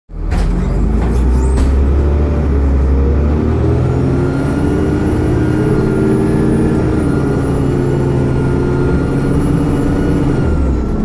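Dennis Trident double-decker bus engine, low and deep at first, then about three and a half seconds in pulling under load with its note rising in steps, easing back near the end. A thin high turbocharger whine sounds above the engine.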